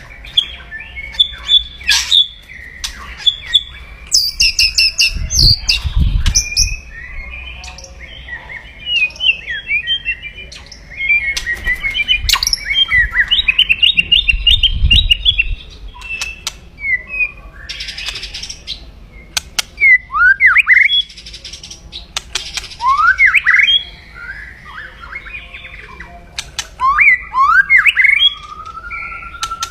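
White-rumped shama (murai batu) calling aggressively in its 'kretekan' style: sharp clicks, rapid rattling trills and short falling whistles in quick succession. Two low thumps come through, about five and fifteen seconds in.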